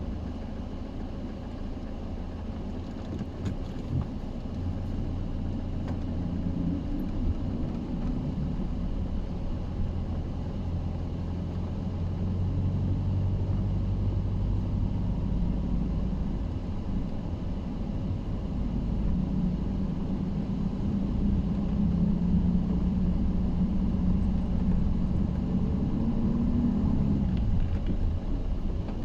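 Vehicle engine running with a steady low rumble, its pitch shifting up and down a few times and dropping near the end.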